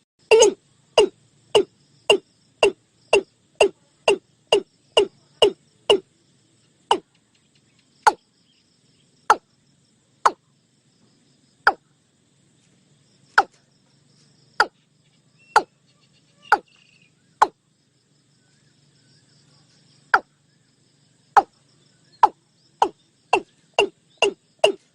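Watercock (cúm núm) calling: a series of short, deep notes, each dropping quickly in pitch. The notes come about two a second at first, slow to roughly one a second from about six seconds in, and speed up again near the end.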